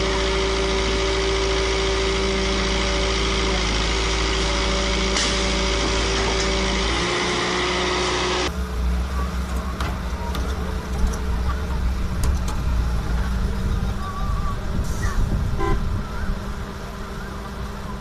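Heavy machinery engine running steadily with a constant droning tone. About eight seconds in, the sound cuts to a rougher, unsteady engine with scattered knocks.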